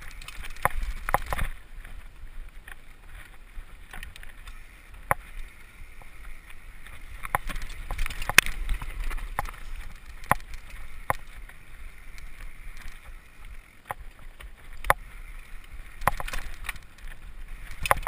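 Mountain bike rattling down a rough, rocky trail: irregular sharp knocks and clatters from the frame, chain and tyres striking rocks over a steady low rumble of wind and rolling noise.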